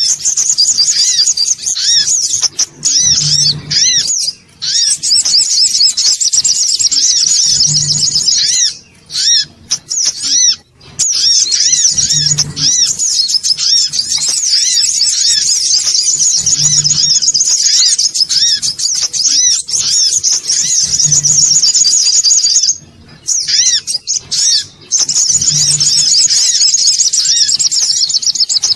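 Songon otong (a yellow sunbird) giving a busy, excited stream of rapid high chirps and twitters, the kind of call used as a lure to draw other birds in. The chatter runs almost without pause, broken briefly twice, and a soft low thump recurs about every four and a half seconds.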